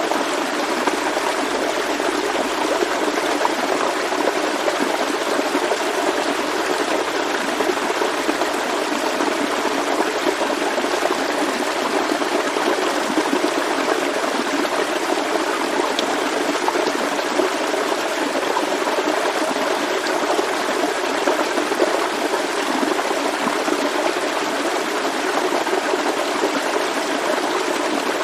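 Forest stream flowing steadily over stones, a constant babbling rush of water.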